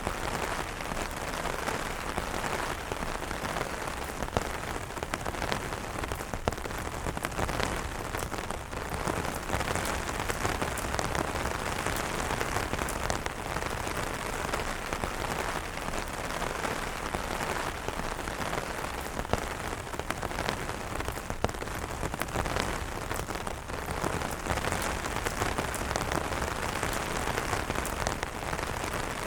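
Steady rain falling on umbrellas: an even wash of rain with scattered sharper drop hits.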